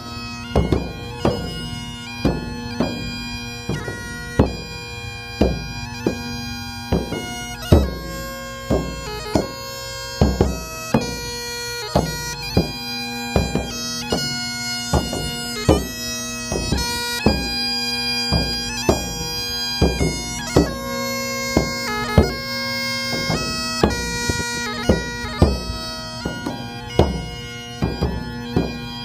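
Bagpipe playing a melody over its steady drone, with a drum keeping a regular beat.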